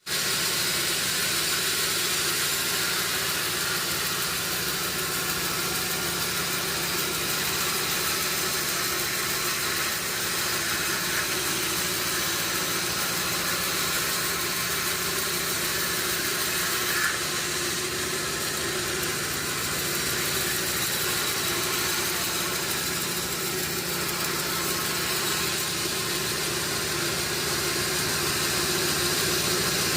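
Sawmill machinery running steadily, a constant engine-like hum with no rise or fall, and one faint click about halfway through.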